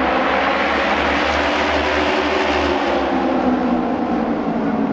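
Japanese auto race motorcycles running at speed around the oval track, their engines held in a steady, loud drone.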